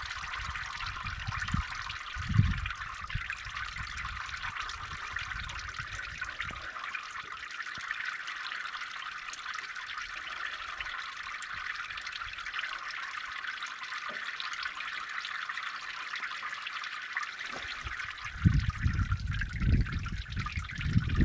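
Engine oil trickling steadily from a Kubota M7040SUD tractor as it is drained or poured during an oil change. Low rumbling thumps come briefly about two seconds in and louder near the end.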